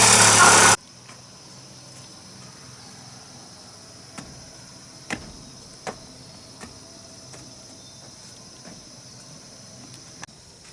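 Chainsaw running at high revs cuts off suddenly under a second in. After it, insects chirr steadily in the background, with a handful of light sharp knocks a few seconds in.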